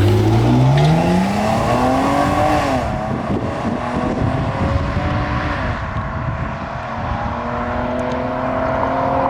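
Chrysler 200S V6 engine accelerating hard from a start. Its note climbs steadily, drops about three seconds in as the transmission shifts up, then climbs again more slowly.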